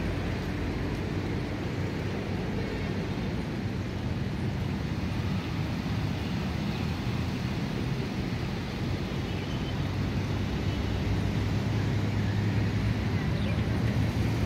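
Small hatchback car's engine running at low speed while it manoeuvres, over a steady outdoor traffic hum. The low engine hum grows louder in the last few seconds as the car comes closer.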